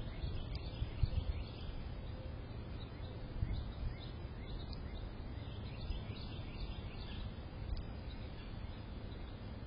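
Outdoor ambience picked up by a small security camera's microphone: a steady low rumble with faint, scattered short bird chirps.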